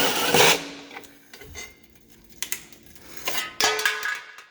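Sheet-metal access cover on an electric water heater's element compartment being pried off and handled: a loud metallic scrape, then scattered clanks and rattles of thin metal, some of them briefly ringing.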